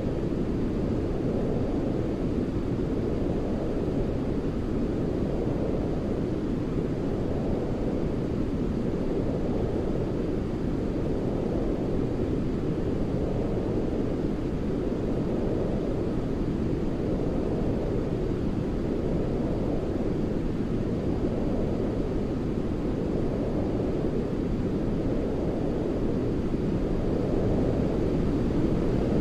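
Baby sleep white noise: a steady, deep rushing hiss weighted toward the low end, like brown noise, with soft slow swells every couple of seconds.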